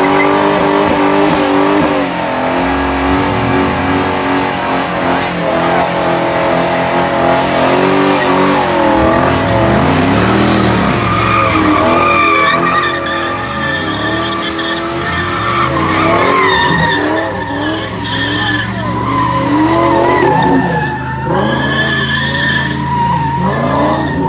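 Ford Mustang GT's V8 held at high revs while its rear tyres squeal in a burnout and donuts. The squeal wavers up and down in pitch throughout.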